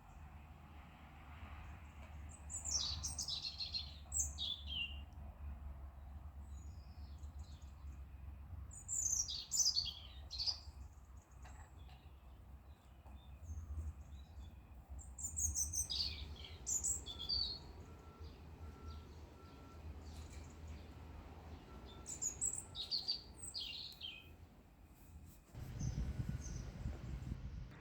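A songbird singing four short phrases of quick descending chirps, several seconds apart, over a low steady rumble.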